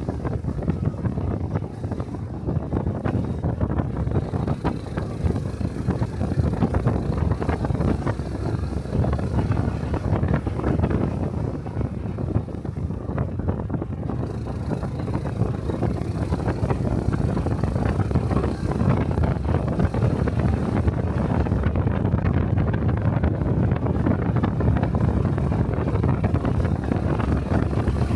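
Honda Cub-series 125 cc single-cylinder motorcycle running on the road, its engine and exhaust mixed with wind buffeting the microphone. The noise is steady, swelling a little after about eighteen seconds.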